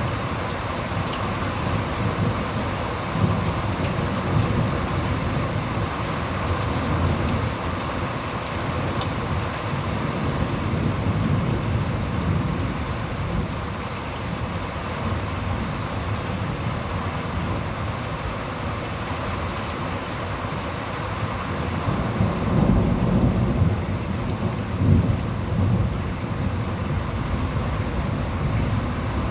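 Rain falling steadily through a thunderstorm, with low rolling thunder underneath; a louder rumble of thunder swells about three-quarters of the way through.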